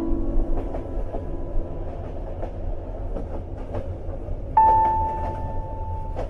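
Train-ride ambience: a steady low rumble of a train running along, with irregular clicks from the rails. A held musical note fades out at the start, and a new one sounds about four and a half seconds in.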